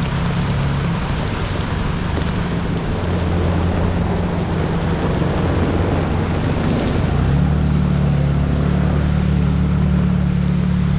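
Steady heavy rain hissing, with a vehicle engine running underneath that gets louder about seven seconds in.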